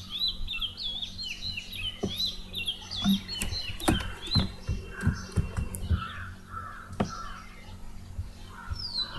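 Small birds chirping in a quick repeated series, with a few harsher calls in the middle and scattered sharp clicks.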